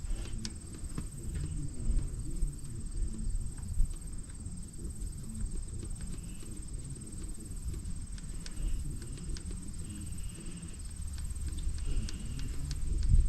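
Irregular clicks and knocks from the hand-worked fuel lift pump of a 1954 Fordson diesel tractor being primed to push diesel up to the filter, over a low rumble; little fuel is reaching the filter yet.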